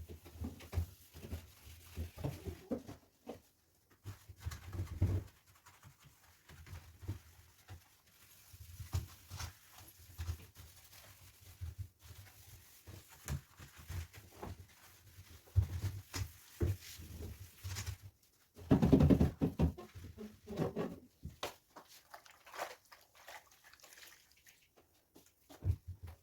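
Soapy scouring pad scrubbing hard stains off the inside of a fridge: irregular rubbing strokes with bumps and knocks, and a louder pitched sound about two-thirds of the way through.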